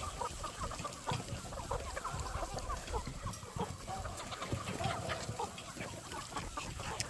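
Many chickens clucking together in a large flock, short overlapping calls with scattered clicks and rustling.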